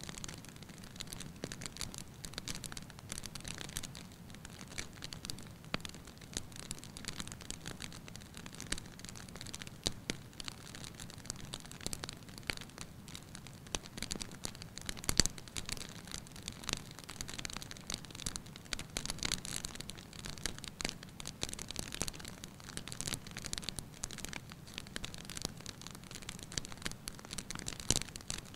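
Wood fire in a fireplace crackling steadily, with many small pops and snaps over a low rumble of flame, and one louder pop about halfway through.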